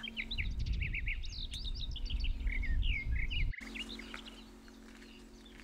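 Small birds chirping, many short quick calls over a low rumble, cutting off abruptly about three and a half seconds in; after that only a faint steady hum.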